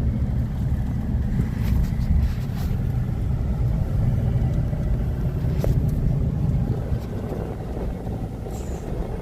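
A car driving, its engine and road noise making a steady low rumble.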